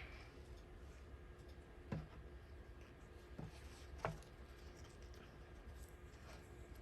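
Four faint, short clicks and light knocks spread over a few seconds, over a low steady hum.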